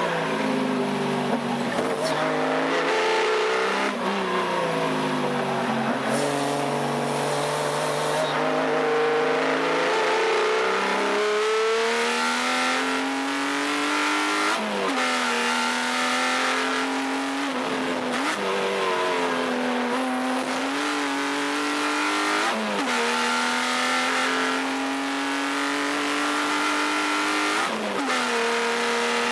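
Subaru EZ30 3.0-litre flat-six engine in a Porsche 914/6 running hard. Its pitch climbs steadily and drops suddenly several times, as it is driven up through the gears.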